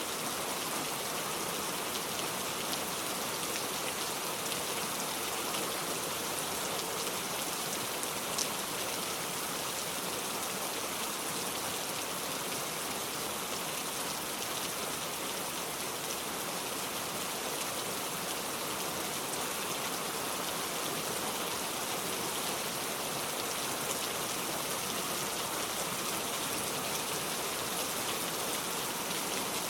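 Steady heavy rain drumming on a metal roof, an even hiss of drops with no thunder. One sharper drop ticks about eight seconds in.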